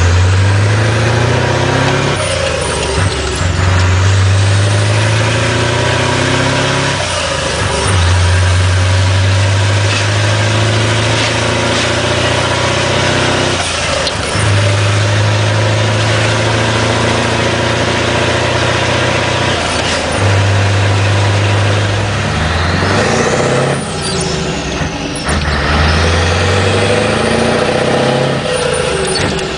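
Scania 143's V8 diesel running through an open exhaust, a deep steady engine note held for several seconds at a time. The note dips briefly and picks up again about every few seconds.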